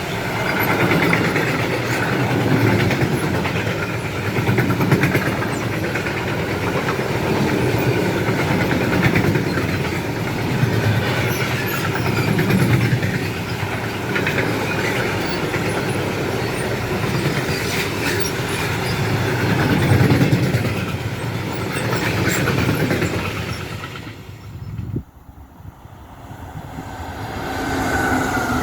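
A train passing at close range, its wheels rumbling and clattering over the rails. The sound drops off abruptly about 25 seconds in.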